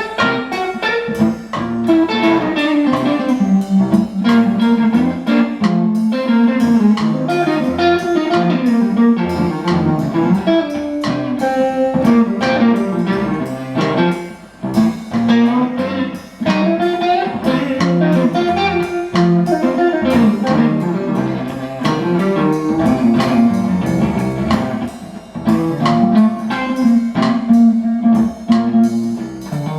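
Live blues music led by guitar, with quick plucked notes.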